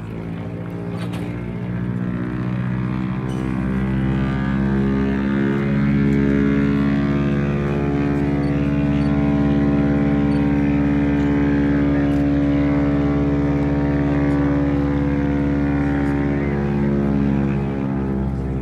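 P-51D Mustang's Packard Merlin V-12 engine running steadily with a propeller drone. It grows louder over the first six seconds, holds, and eases off near the end.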